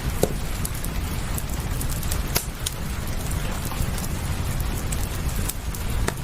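Steady rain over a low rumble, with a wood fire crackling: scattered sharp pops a second or two apart.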